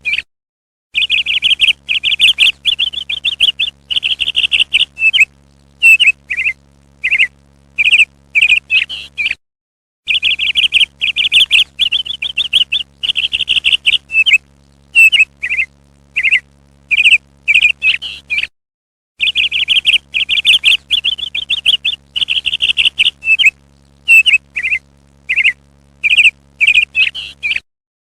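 Parrot calls: rapid, shrill chirps and trilling runs, in a recording that repeats about every nine seconds with a brief silent break between repeats.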